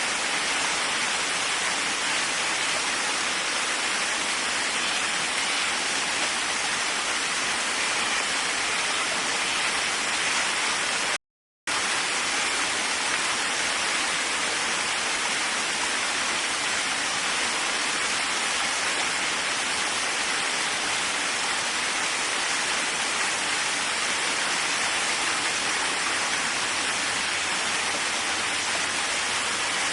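Waterfall: a steady rush of falling water, with one brief dropout to silence about eleven seconds in.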